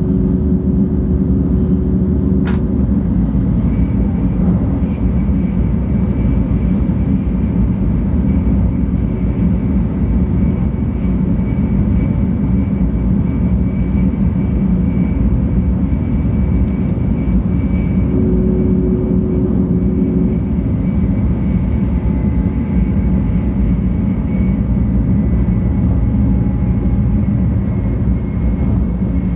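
Cabin noise of a 700-series Shinkansen train running: a steady low rumble with a sharp click about two and a half seconds in.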